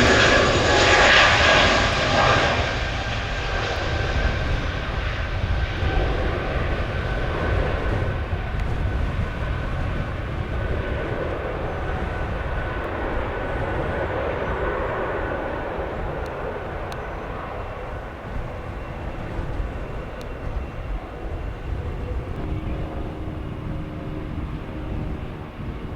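Jet airliner's engines, loud with a whine at first, then fading steadily as the aircraft moves away, leaving a low rumble. Wind noise on the microphone runs underneath.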